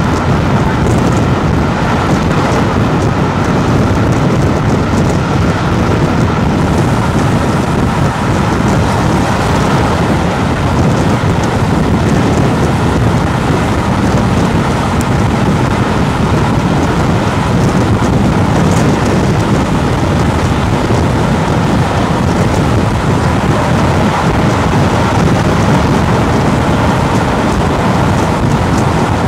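Steady, loud rush of a steam-hauled train running at speed, heard from on board: wind and wheel-on-rail noise from the train behind A1 Pacific 60163 Tornado, holding level without a pass-by rise or fall.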